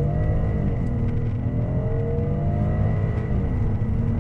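2017 Kia Cadenza's 3.3-litre V6 accelerating at full throttle, heard from inside the cabin. The engine note climbs and drops back at upshifts of the eight-speed automatic, once about a second in and again after about three seconds.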